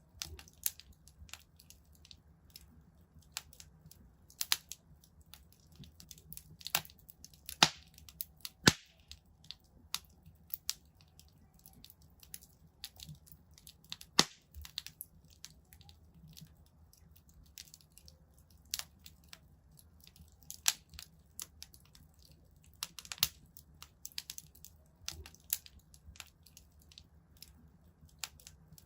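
Wood fire in a fireplace crackling: irregular sharp pops and snaps over a faint low rumble of the flames, with a few louder snaps about a third of the way in.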